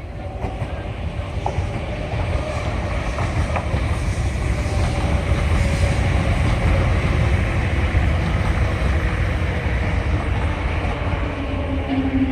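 MTR East Rail line R-train electric multiple unit moving along the platform: a rumble that swells over the first few seconds and then holds loud, with a faint electric motor whine over it.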